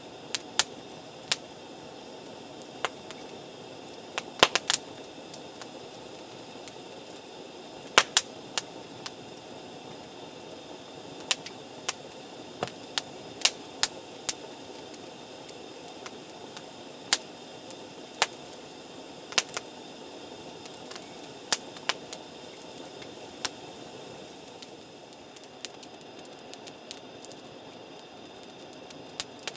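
Wood campfire crackling: irregular sharp pops and snaps, roughly one every second, over a steady background hiss.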